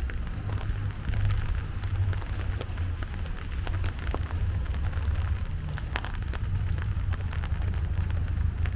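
Rain falling, with scattered sharp drop hits close by over a steady low rumble.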